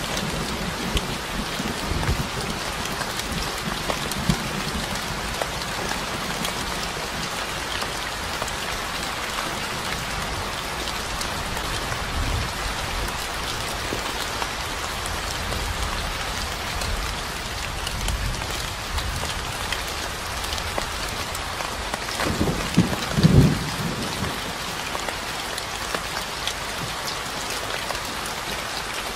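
Steady rain falling on a surface, an even patter of drops. A few low rumbles come through it, the strongest about three-quarters of the way in.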